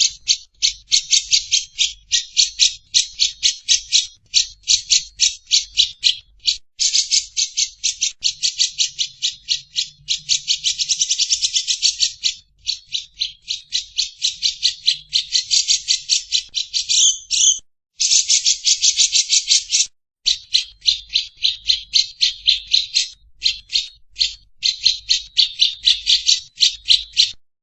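Lovebird 'ngekek': a long, rapid chattering of high, harsh notes, about five or six a second, kept up with only a few brief breaks before stopping abruptly at the end.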